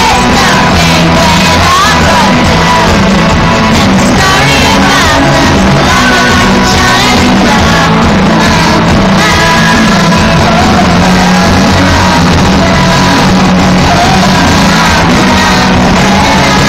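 Live pop-rock concert heard from the audience: a female lead singer with a full band, the crowd shouting and singing along, echoing in a large arena. The recording is loud and distorted throughout.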